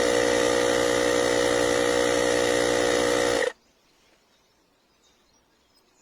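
Small electric air compressor of a cordless portable tyre inflator running with a steady hum, cutting off abruptly about three and a half seconds in. A few faint bird chirps follow in the quiet.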